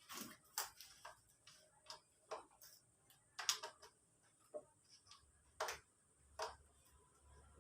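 Faint, irregular metallic clicks and clinks from hand tools and small engine parts being handled and set down during engine disassembly, about a dozen light knocks with no steady rhythm.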